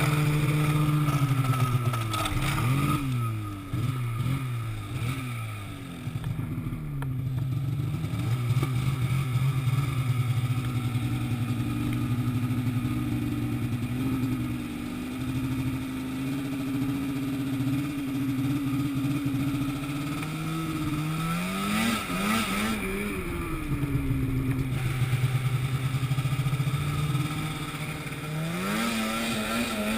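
An engine running steadily, its speed falling a couple of seconds in, rising sharply around three-quarters of the way through, dropping back, then rising again near the end.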